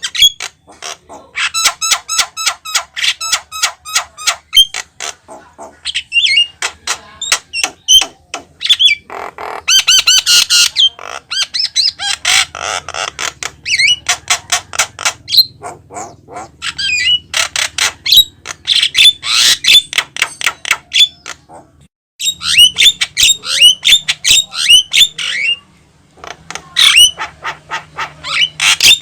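Javan myna (jalak kebo) singing hard: a long, fast run of harsh squawks, chattering clicks and short whistled notes, broken by two brief pauses about 22 and 26 seconds in.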